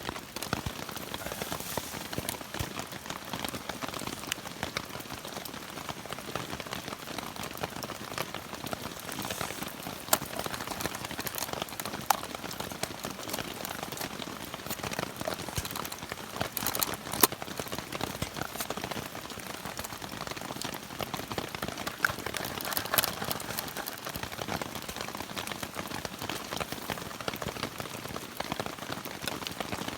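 Rain falling as a steady patter, with a few louder sharp drips or taps scattered through it.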